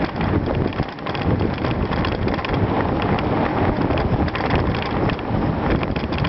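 A bicycle riding over a gravel trail, with wind buffeting the microphone and many small rattles and bumps from the tyres and frame.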